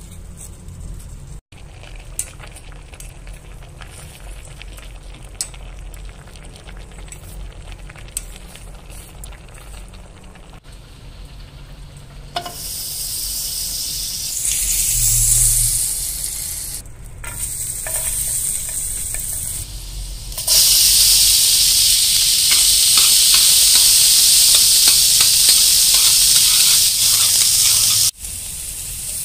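Water boiling quietly in a pot as spaghetti goes in. About twelve seconds in, butter sizzles as it melts in a hot pan. From about twenty seconds, chopped onions fry with a loud, steady sizzle while a metal utensil stirs them, cutting off shortly before the end.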